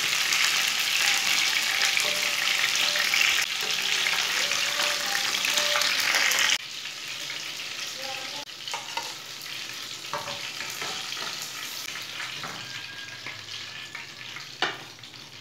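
Beef koftas frying in hot oil in a pan, a dense steady sizzle. About six and a half seconds in it drops suddenly to a quieter hiss with a few light clicks and one sharper tap near the end.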